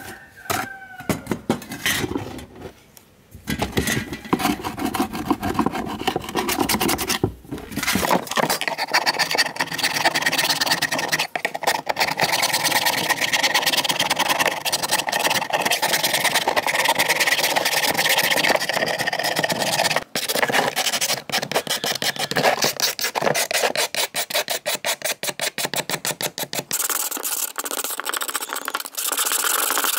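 Rust being scraped and rubbed off the metal parts of an old fan in quick repeated strokes. There are a few short bouts at first, then steady continuous scraping from about eight seconds in.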